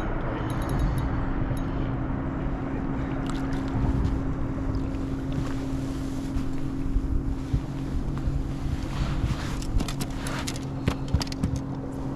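A boat sits on the water with a steady low hum and wind buffeting the microphone, while a fish is played on rod and reel. A scatter of short clicks and knocks builds up in the second half.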